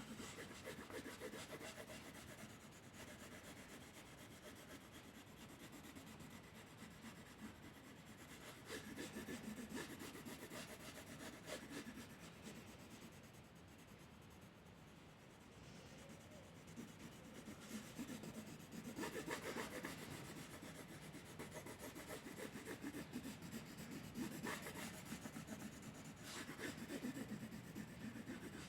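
A drawing tool rubbing back and forth across paper: repeated colouring strokes, faint and scratchy, swelling and easing as the strokes change.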